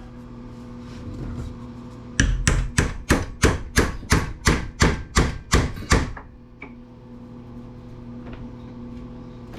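A quick run of about a dozen hammer blows, roughly three a second for about four seconds, struck on a rusted-on part of a scrapped planer that will not budge.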